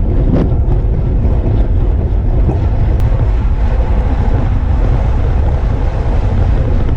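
Loud, steady wind buffeting on the microphone, a low rumble while moving with cyclists riding at speed.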